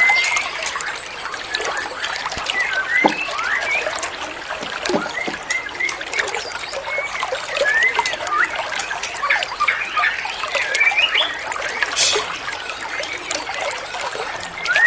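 White-rumped shama (murai batu) singing: a run of short whistled notes that slur up and down, mixed with quick chips and clicks, over a steady hiss.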